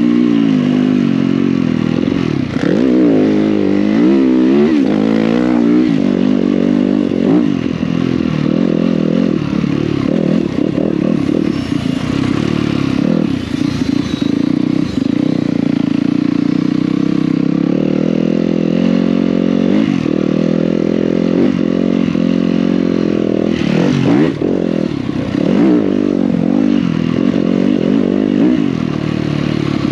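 Yamaha YZ250F dirt bike's single-cylinder four-stroke engine through an FMF 4.1 titanium exhaust, ridden hard. The pitch rises and falls over and over with throttle and gear changes.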